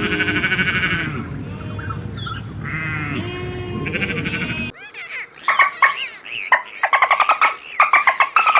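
Animal calls from two clips in succession: pitched calls over a low rumble, then, a little past halfway, an abrupt switch to a different animal's quick, repeated short calls.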